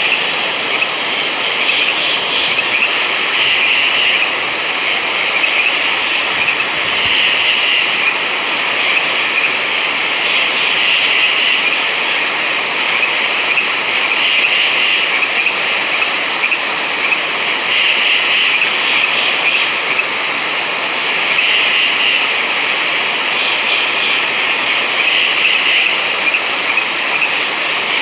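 Chorus of frogs calling: a dense, steady trilling with louder bouts of calls every second or two over a constant hiss.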